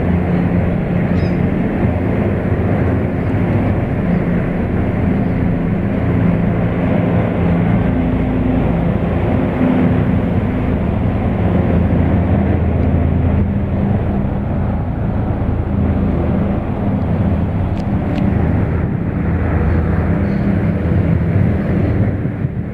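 Light turbine helicopter in flight, a loud, steady rotor and engine sound with several low humming tones.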